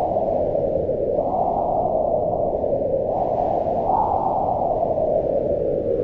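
Howling wind, a steady rushing whose pitch rises and falls as it swells and eases in slow gusts.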